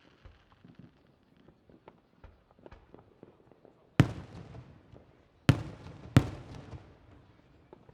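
Aerial fireworks shells bursting: three loud booms, the last two less than a second apart, each followed by a rolling echo, with faint small crackles before them.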